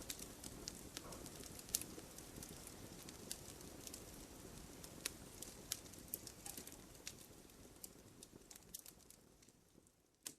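Wood fire in a fireplace crackling, with frequent sharp pops of burning logs over a soft low rush of flames. It fades away toward the end.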